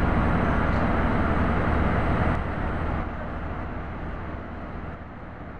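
A train running with a steady rumble and low hum, loud at first and then fading gradually as it draws away.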